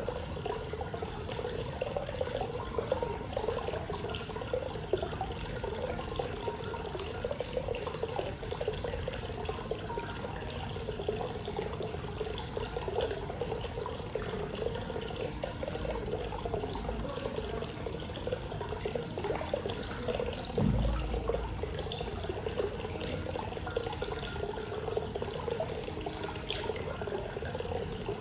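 Hot spring water pouring and splashing steadily into an outdoor bath. About two-thirds of the way through there is one brief low thump.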